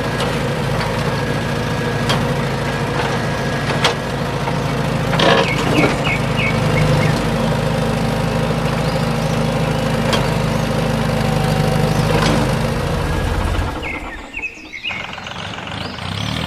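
An engine running steadily for miniature truck and tractor work, with a few sharp clicks and knocks. It cuts out suddenly about fourteen seconds in and comes back near the end.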